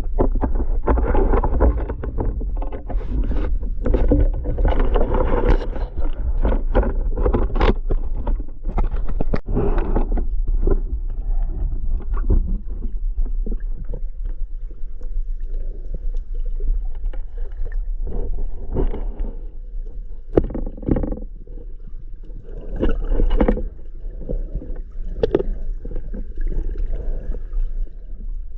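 Water noise as picked up by a dive camera: irregular splashing and gurgling bursts over a steady low rumble.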